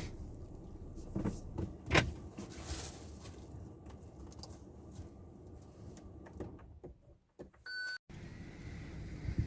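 Cabin noise of a Kia Seltos on the move: a steady low engine and road hum, with a few sharp clicks in the first two seconds, the loudest about two seconds in. Near the end the sound drops out briefly and a short electronic beep sounds.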